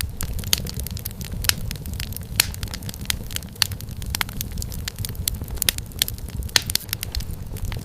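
Wood fire crackling steadily: a low rumble of flames with frequent sharp, irregular pops and snaps from the burning firewood.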